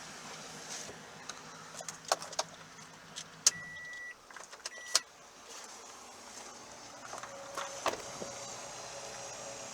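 2014 Toyota Tundra's 5.7-litre i-Force V8 idling with a low hum, then switched off about four seconds in. Around the shut-off there are sharp clicks and two short high electronic chime beeps from the truck.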